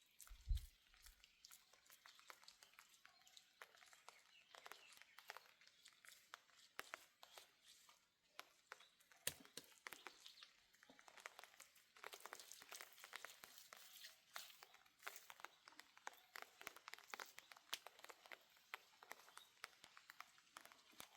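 Faint rustling and crinkling handling noises made of many small, irregular clicks, with one low thump about half a second in.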